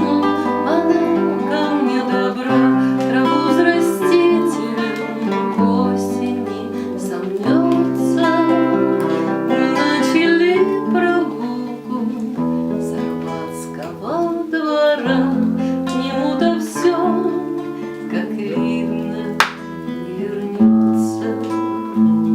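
Acoustic guitar playing a strummed and plucked chord accompaniment to a song, with a voice holding sung notes over it in places.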